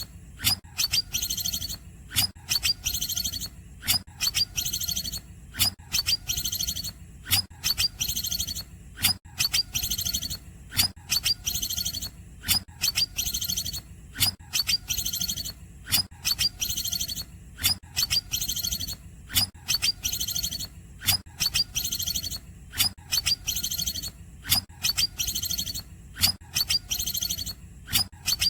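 Green leafbird (cucak ijo) singing in the cungkokan style: a fast, unbroken run of sharp, high chirps and trills, several notes a second. A faint low hum lies underneath.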